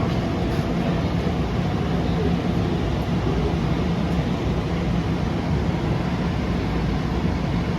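Steady rumble of a Long Island Rail Road train with a low, even hum.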